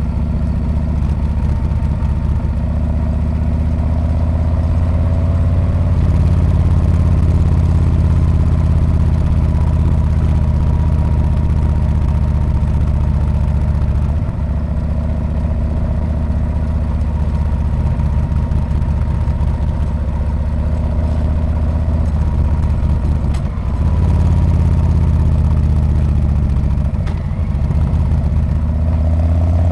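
Harley-Davidson Street Bob's V-twin engine running through its exhaust while riding, a steady low-pitched beat with a few brief dips in level and the revs climbing again near the end.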